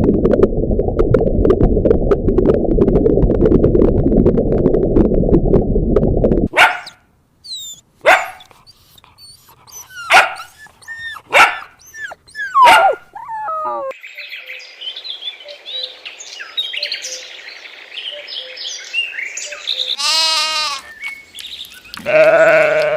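A run of different animal calls, one kind after another. A dense low noise fills the first six seconds and stops suddenly. Short sharp yelps and swooping chirps follow, then a chorus of high calls, and a brief call with a clear pitch near the end.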